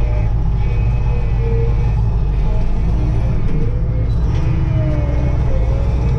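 Kirovets K-700A tractor's V8 diesel engine running steadily with a deep low rumble, being run in after a rebuild with new pistons.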